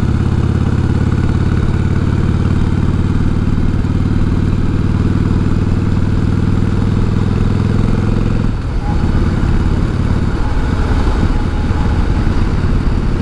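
A 1988 Harley-Davidson Heritage Softail's 1340 cc Evolution V-twin runs steadily, heard through a helmet microphone. About eight and a half seconds in, the engine note changes abruptly and carries on at a different pitch.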